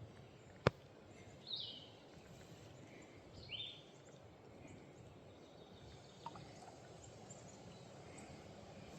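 Two short bird chirps about two seconds apart over a faint steady outdoor background, with a single sharp click a little under a second in.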